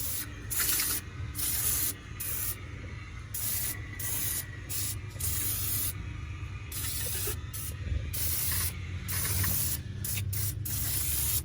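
Aerosol can of Gunk engine degreaser spraying over an engine in a series of short hissing bursts, stopping and starting again every second or so.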